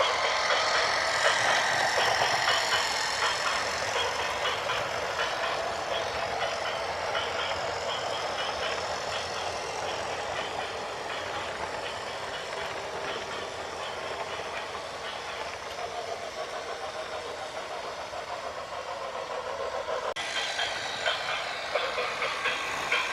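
Heavy construction machinery running, an engine noise with steady rattling and clanking. It changes abruptly about twenty seconds in.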